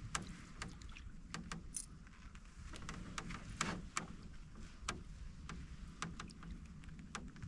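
A canoe being paddled: the paddle swishing and dripping in the water, with many scattered light clicks and knocks from the paddle and hull. One longer swish comes about halfway through.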